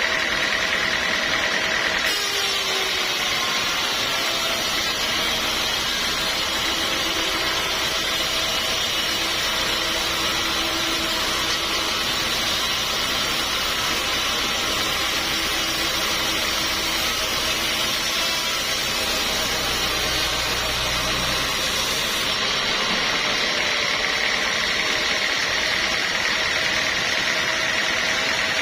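Sawmill machinery running steadily. From about two seconds in until about six seconds before the end, its sound changes: a steady high note drops out and a brighter hiss takes over, with a low rumble in the middle stretch.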